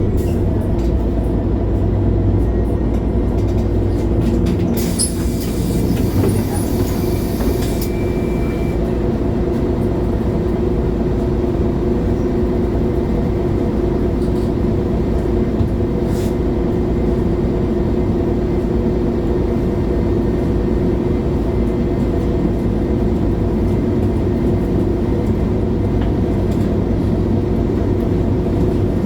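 MAN A23 Lion's City G articulated city bus's diesel engine running steadily under way. About five seconds in, a hiss lasts about three seconds.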